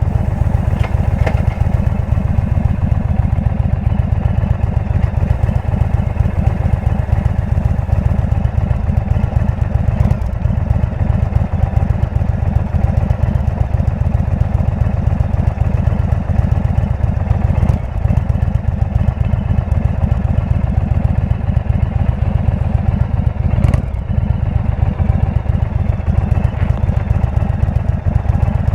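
Indian V-twin motorcycle with a Jekill & Hyde exhaust, running at a steady pace with a deep, rapid, even exhaust pulse.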